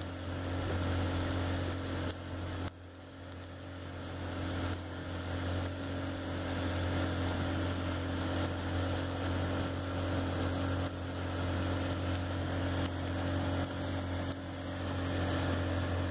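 Boat motor running at a steady speed: an even low drone with a steady hiss over it, dipping briefly about three seconds in.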